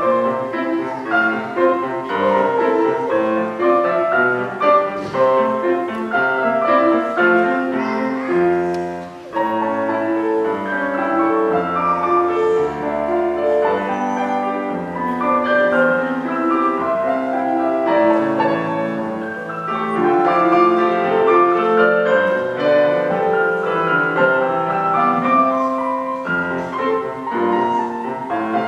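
Piano playing a classical-style piece, many notes in quick succession, with a brief lull about nine seconds in.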